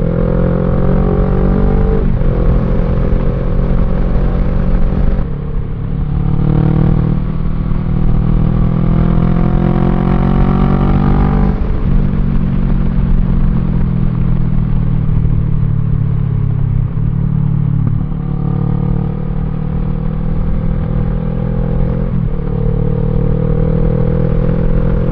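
A 2014 Kawasaki ER-6N's 650 cc parallel-twin engine, with a custom midpipe and gutted exhaust, pulls under way. Its pitch climbs steadily, then drops sharply three times as it shifts up through the gears, over a constant low rumble of wind and road.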